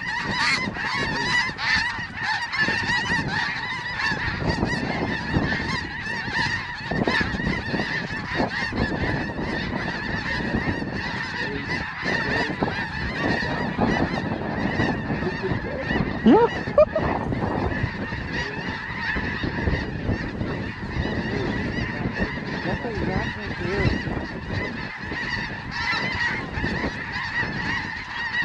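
A large flock of snow geese calling, a dense, unbroken chorus of honks. One bird close by gives a louder call rising in pitch about sixteen seconds in.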